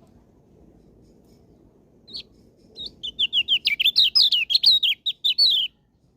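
Kecial lombok, a white-eye songbird, singing: two single high chirps, then about three seconds of a fast, high, twittering run of quick downward-sweeping notes that stops abruptly.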